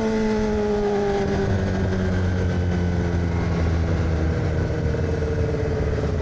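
2006 Yamaha R6 inline-four through an AR aftermarket exhaust, revs falling slowly and steadily as the bike slows on the throttle-off, over a steady rush of wind and road noise.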